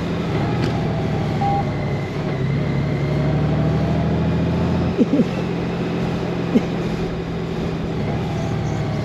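Honda GoldWing's flat-six engine running steadily under way, with road and wind noise. A few brief sharp sounds about five seconds in and again a little later.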